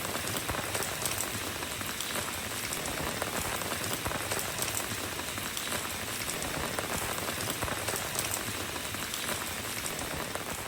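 Steady rain falling on a road, an even hiss with scattered drop patter.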